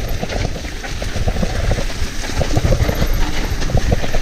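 Mountain bike clattering and rattling over rough, muddy trail, with a dense run of uneven knocks over a steady rumble.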